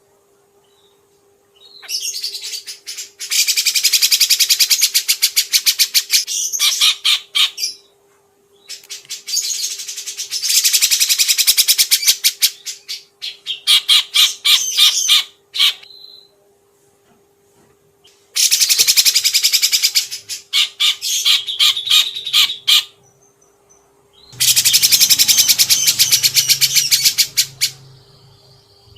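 A songbird sings in loud, rapid, chattering trill phrases a few seconds long, with short pauses between them. A faint steady hum runs underneath.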